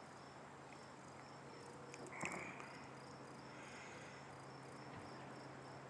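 Crickets chirping faintly in a steady rhythm of high pulses, about two a second, over a steady low hum. A short higher call sounds once about two seconds in.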